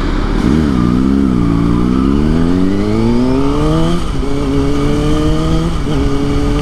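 Kawasaki ZX-6R's inline-four engine accelerating, its pitch rising steadily then dropping sharply at two upshifts, about four and six seconds in, and holding steady after the second; wind noise on the microphone underneath.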